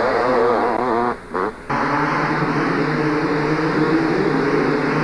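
Two-stroke motocross bike engines revving and running hard, pitch rising and falling as they race. The sound drops out twice briefly a little over a second in, then a steadier engine note carries on.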